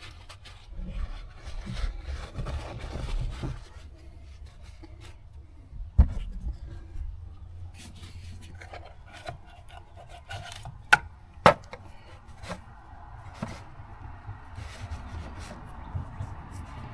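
Rubbing and scraping handling noises with a few sharp clicks and knocks, as a cartridge oil filter is worked out of its housing on top of the engine.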